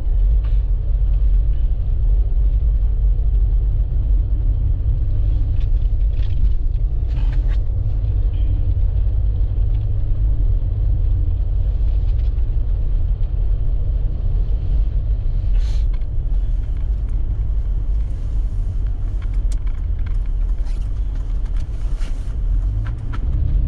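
Vehicle driving on snow-covered roads: a steady low road and engine rumble, with a few brief faint crackles now and then.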